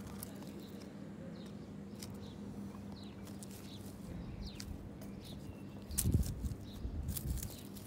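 Small birds chirping outdoors, short calls about once a second, over scattered clicks and rustles in grass. About six seconds in, a louder low rumble of wind or handling noise comes and goes.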